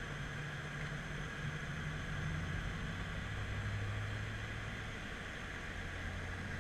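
BMW F10 M5's twin-turbo V8 heard from inside the cabin as the car is driven through corners on a track, over steady tyre and wind noise. The engine note drops in pitch about two seconds in and then holds lower and a little louder.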